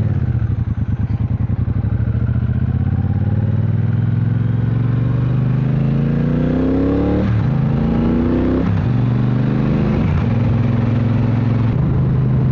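Triumph Bonneville Bobber's parallel-twin engine accelerating through the gears. The revs climb steadily for about five seconds and fall sharply at an upshift about seven seconds in. They climb again briefly, fall at a second shift near nine seconds, then hold steady at a cruise.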